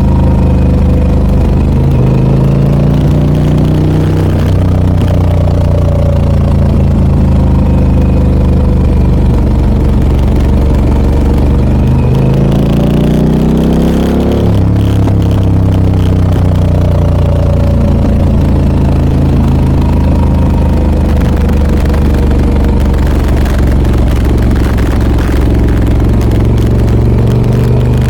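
Harley-Davidson Pan America 1250 Special's Revolution Max V-twin running through a Scorpion aftermarket exhaust while riding. The engine note climbs steadily about halfway through, then drops sharply at a gear change, and settles back to a steady pull.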